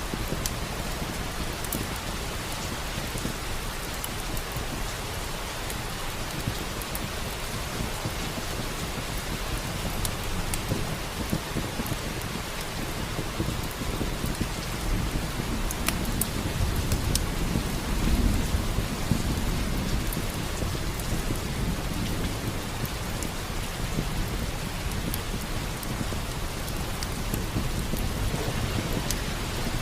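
Steady heavy rain with a low roll of thunder swelling and fading about two-thirds of the way through, and scattered sharp crackles from a wood fire in a fireplace.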